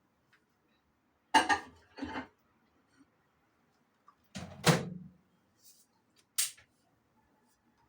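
Knocks and clunks of a dish and microwave being handled: two clunks, then a louder rattling clunk about four and a half seconds in, and a short sharp click near the end.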